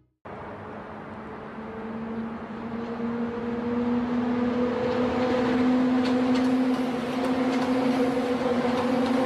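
High-speed train running, its noise building over the first few seconds and then holding steady, with a steady hum throughout.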